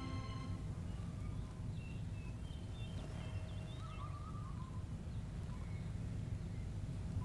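Birds chirping and twittering faintly in short, scattered calls over a low steady background rumble, after a music cue fades out in the first half second.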